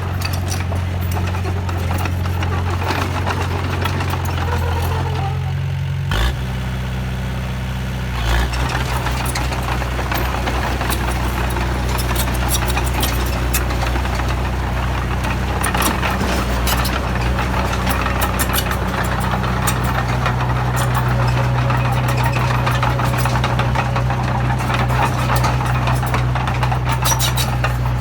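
Large truck engine running with a steady low drone. Its note shifts about six seconds in with a thump, and again just after eight seconds with a knock, then it keeps running at the new pitch.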